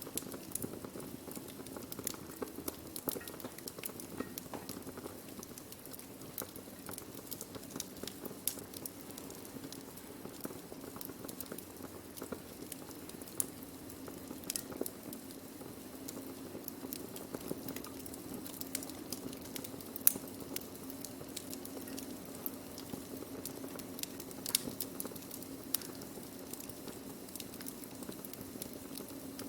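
Burning wood crackling: a steady low rush with many irregular sharp pops and snaps, a few louder ones, the loudest about twenty seconds in.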